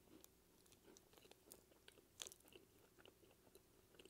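Faint chewing of a mouthful of chocolate-coated caramel and biscuit bar, with scattered small crunchy clicks and one slightly louder crunch about two seconds in.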